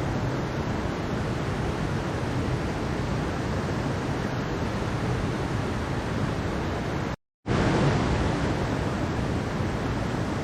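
Mountain stream water rushing steadily. It cuts out to silence for a moment about seven seconds in, then resumes at the same level.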